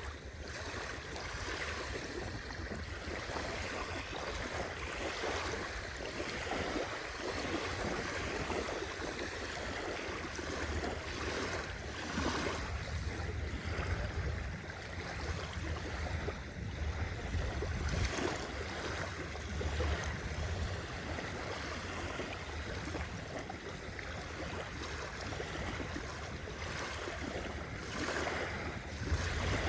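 Sea waves washing continuously, a steady rush of water with a low rumble underneath, swelling briefly now and then as waves break.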